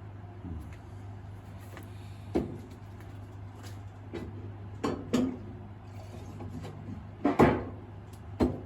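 A handful of short, irregular knocks and clunks from handling the finishing materials while the polishing rag is recharged with shellac and oil, the loudest near the end, over a steady low hum.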